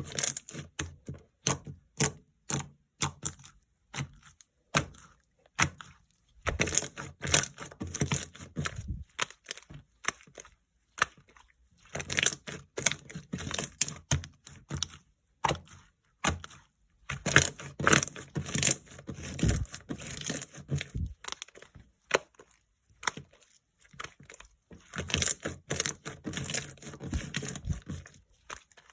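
Jiggly slime being squished and pressed by hand, giving rapid crackling clicks and pops. It comes in bursts of a few seconds each, with short pauses between them.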